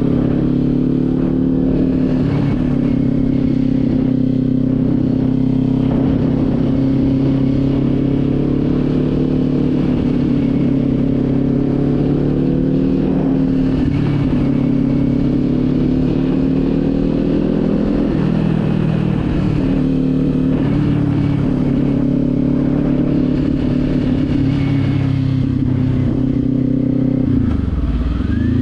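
Motorcycle engine running at a steady cruise under the rider, its pitch dipping briefly about two-thirds of the way through and falling then rising again near the end as the revs change.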